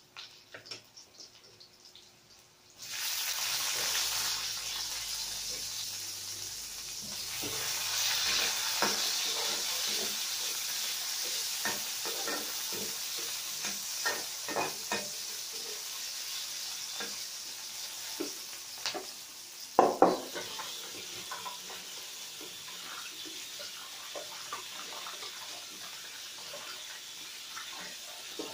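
A few light knocks, then about three seconds in chopped onions hit a hot wok of garlic and oil and start sizzling. They keep frying with a steady hiss while a metal spatula stirs and knocks against the pan, loudest in two knocks about twenty seconds in.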